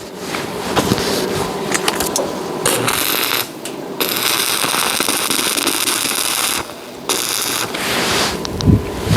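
Electric arc welding: a steady crackling arc in three runs of a few seconds each, broken by short pauses.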